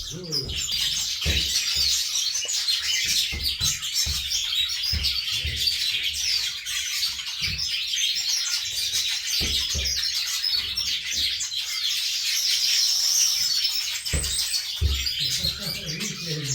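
Many small cage birds chirping and twittering continuously in a dense, high-pitched chorus, with occasional soft low thumps.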